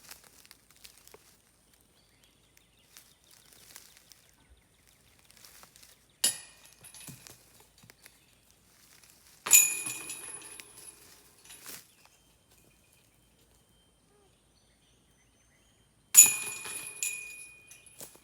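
Disc golf basket chains and metal basket struck by putted discs three times, each strike a sharp clink followed by a jingling metallic ring that dies away over a second or two.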